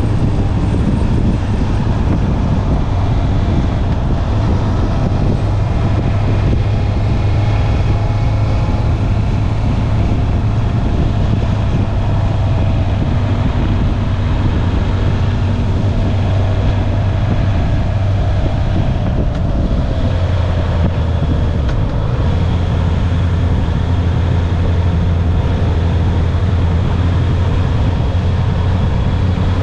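Honda CB650R's stock inline-four engine running under way at a fairly steady pitch that drifts slowly and eases down about two-thirds of the way through, with wind on the microphone.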